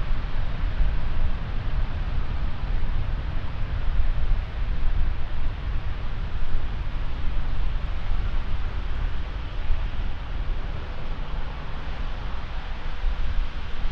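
Steady roar of jet aircraft noise at an airport, with a low, uneven rumble of wind on the microphone.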